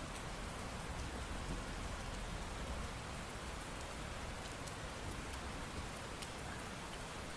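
Steady rain falling, an even hiss with scattered separate drop ticks.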